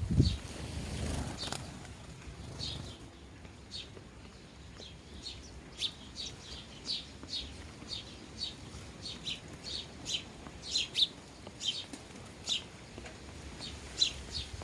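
Sparrows chirping over and over in short, sharp notes. A low thump and a brief rush of noise come near the start.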